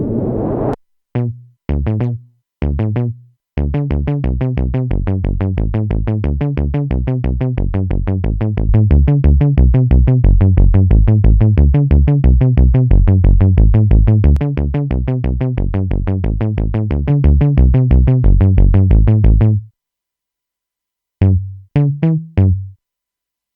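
Jeannie polyphonic synthesizer playing a low, fast repeating sequence of short notes, about five a second, after a few separate stabs. The run cuts off suddenly, and after a pause three more short notes sound near the end.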